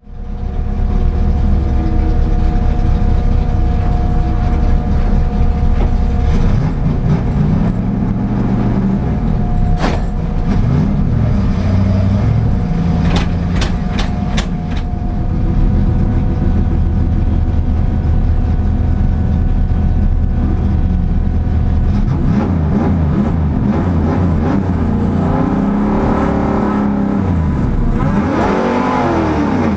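Race car engine idling, heard from inside the cockpit, with the throttle blipped a few times and then revved up and down repeatedly over the last several seconds. A few sharp clicks come about ten seconds in and again around fourteen seconds.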